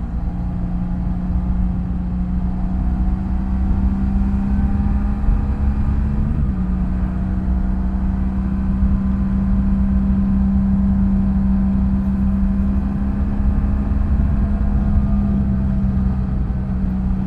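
BMW F800GS's parallel-twin engine running at a steady cruise over a low rumble of wind and road. Its note wavers briefly about six seconds in, then holds steady again.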